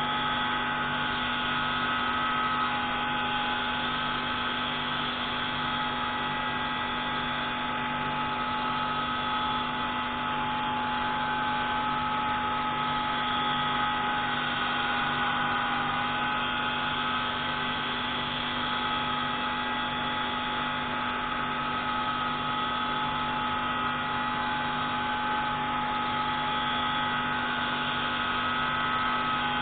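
Pneumatic grinding tool running continuously while grinding the intake valve of a MAK 601C marine engine: a steady high whine over a low hum, its pitch dipping slightly about halfway through as the load changes.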